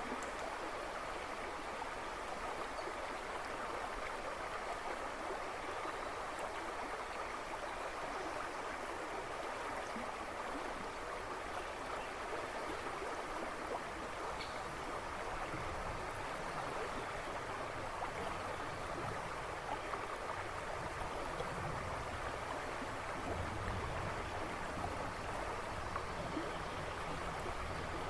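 A river rushing and splashing over stones in a steady, continuous flow. A faint low rumble joins about halfway through.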